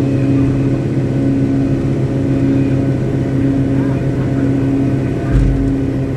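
Caterpillar 777D haul truck's V8 diesel engine running at a steady speed on a stationary ground test, with a short low thump about five seconds in.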